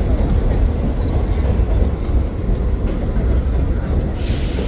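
Vintage R-33/R-36 New York City subway train running on the rails: a steady low rumble, with a brief high hiss near the end.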